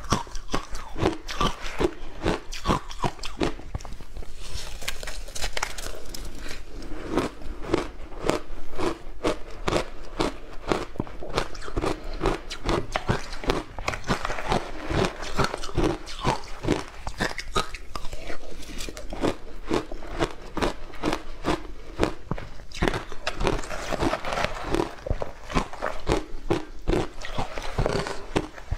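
Close-miked ASMR biting and chewing of something crunchy: a dense, continuous run of crisp crunches, several a second.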